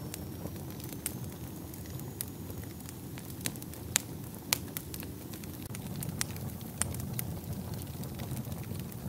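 Wood fire burning in a fireplace, a steady low rush of flames with irregular sharp crackles and pops, two of them louder about four seconds in.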